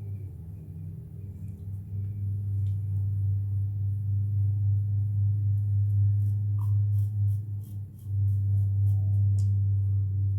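A steady low hum runs throughout and dips briefly about eight seconds in. From about six seconds in come about ten quick, crisp strokes of a Gillette Black Beauty safety razor scraping stubble.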